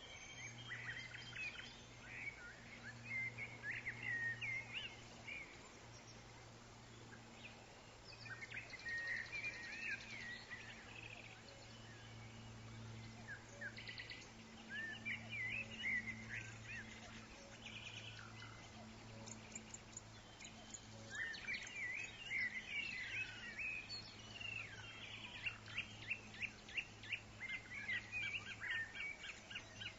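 Woodland songbirds chirping and trilling in several bouts, busiest in the last third with a quick run of repeated notes, over a faint steady low hum.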